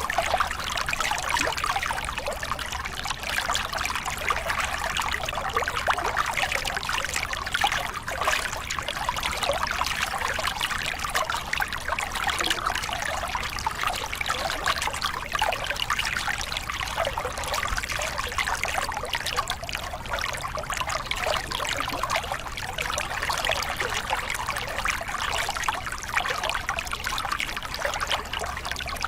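Water of a small river cascade splashing and babbling steadily over rocks.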